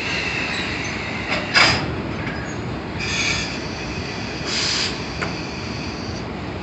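Train moving through the station, with steel wheels squealing on the rails in high steady tones. A short sharp hiss comes about a second and a half in, and two shorter bursts follow near the middle.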